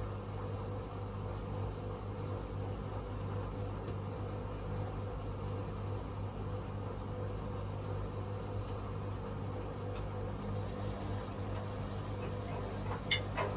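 Hotpoint WMA37 and WMA48 Aquarius washing machines running through the late stage of their spin cycles, a steady motor hum. There is a click about ten seconds in and a couple of sharp clicks near the end.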